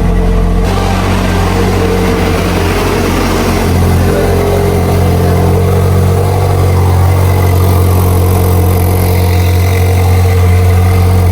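Ferrari 458's V8 engine running loud and steady at an even pitch.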